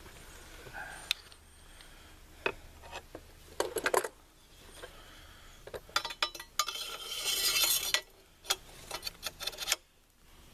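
Metal-on-metal clicks, clinks and scraping as a rifle handguard is worked onto the upper receiver. There are scattered sharp clinks, a cluster about three and a half seconds in, and a longer rattling scrape about two-thirds of the way through.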